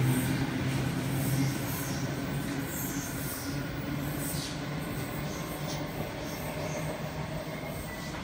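Double-deck electric suburban train pulling away from the platform. Its low motor hum fades in the first second or two, leaving a quieter rumble as it recedes into the distance.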